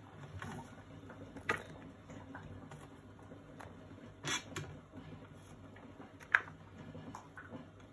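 Light kitchen handling sounds as chopped onions and garlic are tipped into a bowl of seasoned chicken feet: a few scattered soft taps and clicks, the sharpest about six seconds in.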